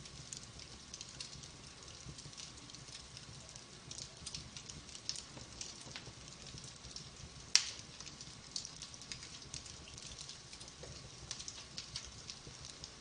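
Wood fire crackling in a fireplace, with steady scattered small snaps over a low rumble of flame. One sharp, much louder pop comes a little past halfway.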